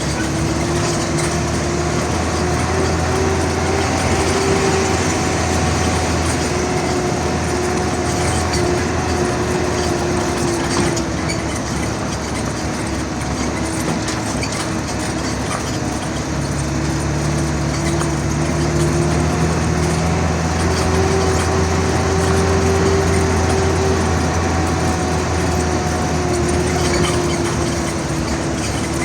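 An engine running steadily, its pitch drifting slowly up and down over several seconds.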